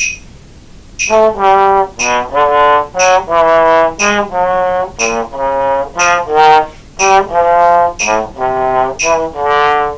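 Trombone playing a slow sequential passage of separate notes in a short-long rhythm, each pair a quick first note followed by a held one, over a metronome clicking about once a second. This is a practice drill for a jazz etude lick, played down the octave with the swing taken out.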